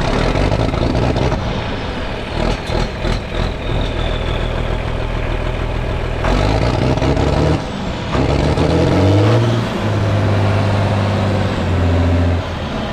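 John Deere 4520 tractor's diesel engine running with its injection pump turned up for more fuel. It is revved up about eight seconds in, held at the higher speed, then drops back near the end.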